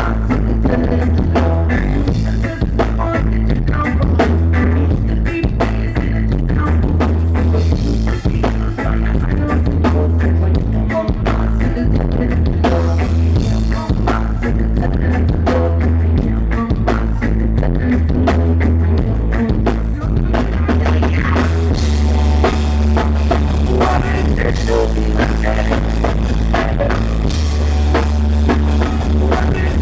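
A rock band playing live: a drum kit keeping a steady beat under a heavy bass line, loud and dense.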